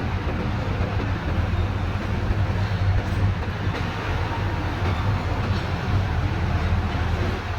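Heavy trucks' diesel engines running with tyre and road noise: a steady low rumble under an even hiss, unbroken.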